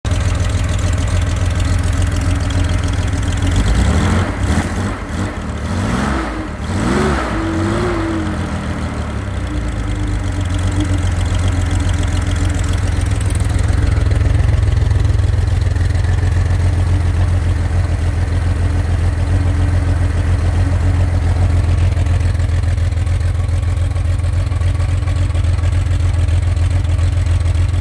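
Freshly built air-cooled Corvair flat-six, enlarged to 2.9 litres and running on carburetors, is revved up and down a few times between about four and nine seconds in, then settles into a steady idle.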